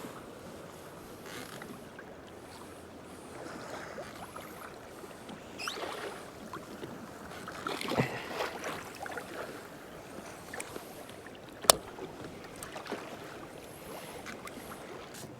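Water lapping and splashing against a kayak's hull, with small handling knocks and one sharp click late on.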